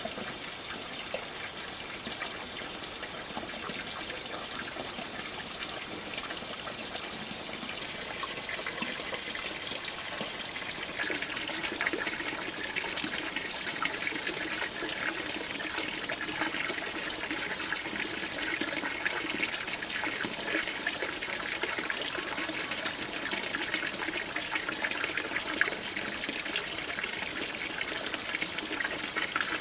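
Water trickling steadily, growing louder about eleven seconds in, with a high rapid pulsing chirp coming and going in spells.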